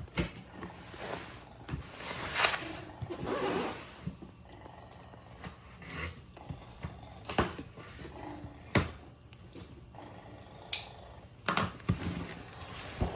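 Ceiling fan's cardboard box and packaging being opened and handled: irregular rustling and scraping with scattered sharp knocks and taps.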